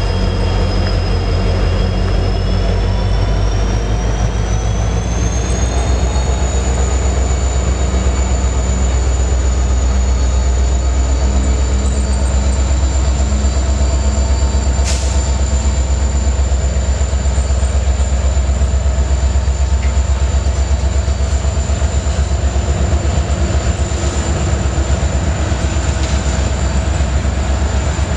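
A freight train rolling past close by: a loud, steady rumble of wheels on rail. A thin high squeal rises in pitch over the first few seconds, then holds steady. There is one sharp click about halfway through.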